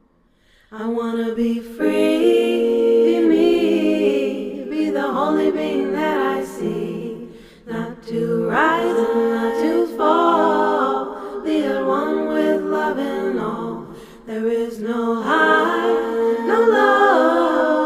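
A cappella singing: layered voices hold long notes in harmony, without words the recogniser could pick out. The phrases are broken by short pauses about 8 and 14 seconds in.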